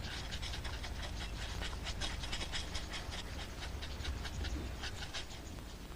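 Guinea fowl scratching and pecking at dry, dusty ground: a rapid, irregular run of short scratchy rasps and clicks.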